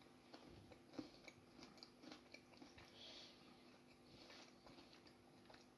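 Faint biting and chewing of a piece of salted pretzel milk chocolate, with soft scattered crunches of the pretzel bits.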